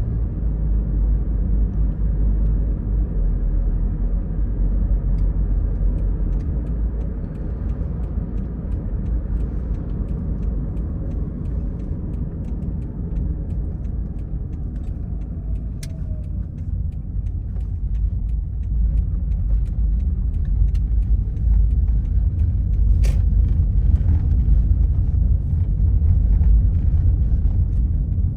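Car driving along a road: a steady low rumble of engine and tyre noise, with two sharp clicks, growing a little louder in the last third.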